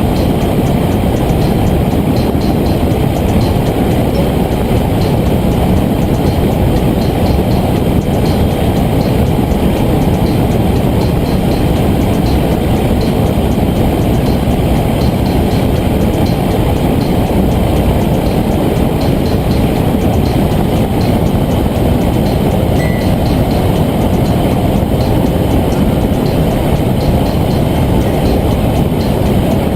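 Small motor of a homemade toy helicopter running steadily. It makes a dense, even whirring rumble with a fast, regular ticking on top.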